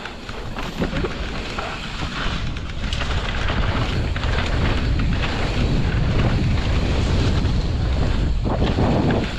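Wind rushing over a rider-mounted camera's microphone as a mountain bike descends a downhill trail, with steady tyre noise and the clatter of the bike's chain and frame over rough ground.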